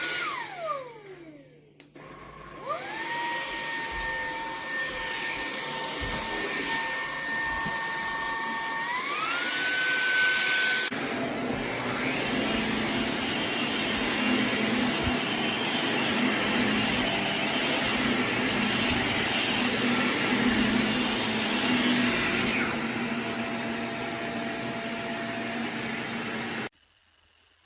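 Shark Navigator upright vacuum: its motor whine spins down, then starts up again about two seconds in and settles to a steady pitch. The pitch steps up about nine seconds in, and from about eleven seconds the running grows louder and rougher. It stops abruptly near the end.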